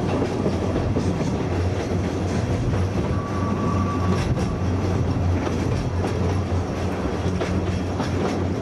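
Ikawa Line train running on the rails, heard from aboard. There is a steady rumble of wheels on track with clicks over rail joints, and a faint brief squeal about three seconds in.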